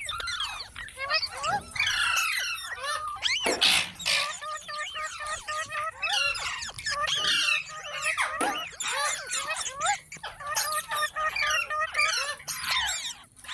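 Several pet green parakeets chattering and squawking: a dense run of quick, high chirps and screeches, with one louder screech about three and a half seconds in.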